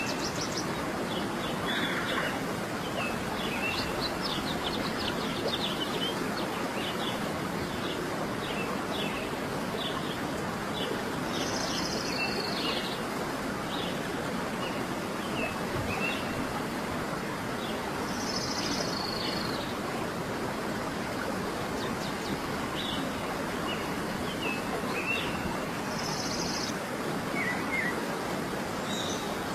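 Birds chirping over a steady, even rushing background noise. Quick runs of short chirps come mostly in the first third, and a higher call comes three times, roughly every six to eight seconds.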